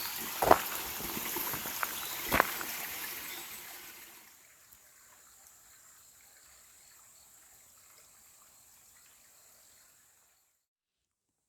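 Small shallow stream trickling, with two sharp knocks in the first few seconds. The water sound fades out after about four seconds, leaving a faint hiss, then silence near the end.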